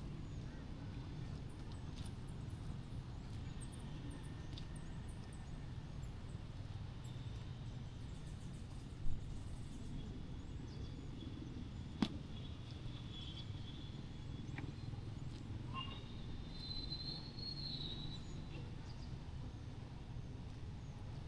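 Town street ambience: a steady low rumble of distant traffic with faint high chirps and a short whistling tone. Two sharp knocks stand out, about nine and twelve seconds in.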